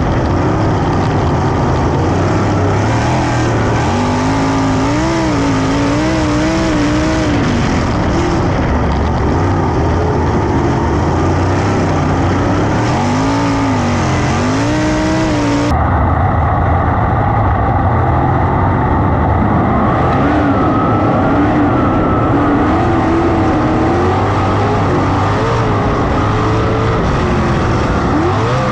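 410 sprint car engines racing at full throttle on a dirt oval, the engine pitch rising and falling over and over as the cars go through the turns and down the straights. About halfway through the sound changes abruptly and turns duller.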